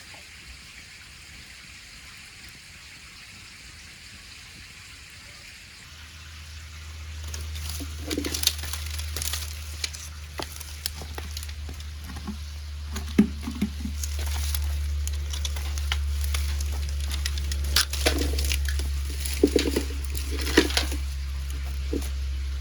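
Wood fire crackling and popping in irregular sharp snaps, with a steady low rumble that comes in about six seconds in; the crackles start about a second later and grow busier near the end.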